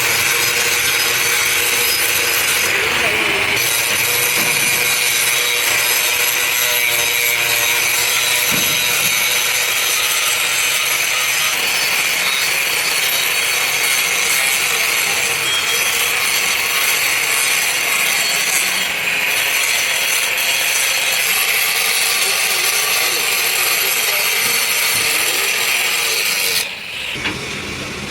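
Power tool grinding metal with a steady, loud, high-pitched grind, briefly easing twice before cutting off near the end.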